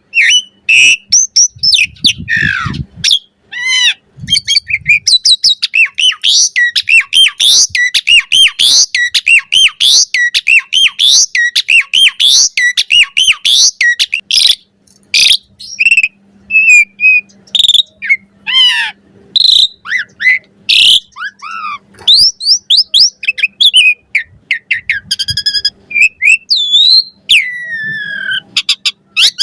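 Asian pied starling singing in full voice: a long, varied run of rapid whistles, squeaky chirps and clicks, broken by short pauses.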